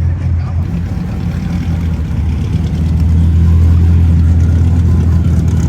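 A car engine idling close by, a low steady drone that grows louder about three seconds in.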